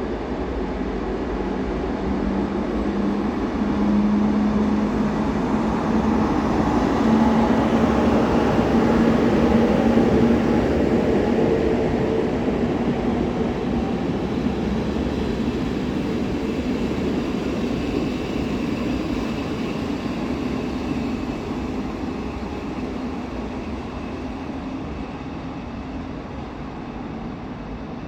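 CFR Class 40 electric locomotive and its two passenger coaches running by with a steady rumble and a hum that rises slightly in pitch. The sound swells to a peak about a third of the way through, then fades away.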